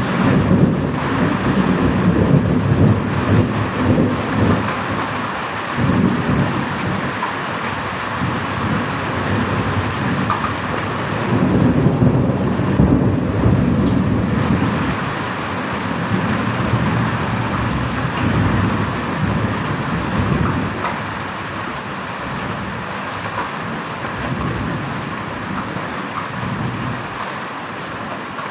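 Heavy rain falling steadily, with thunder rumbling in long rolling waves over it: the first rumble starts suddenly, it swells again a few times, and it eases off toward the end.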